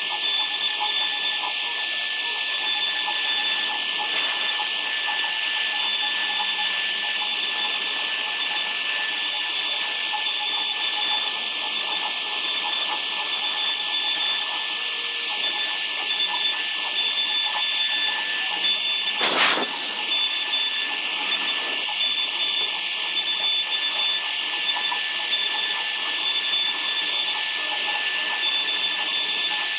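A woodworking power tool running steadily, a dense hiss with a constant high whine, with one brief swish about two-thirds of the way through.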